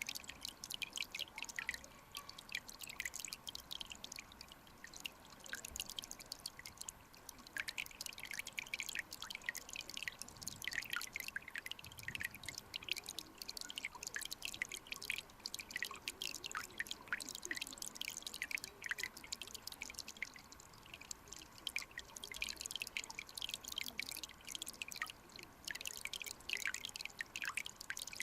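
Mountain stream water trickling and bubbling: a steady run of many small, quick plinks and drips over a soft wash of flowing water.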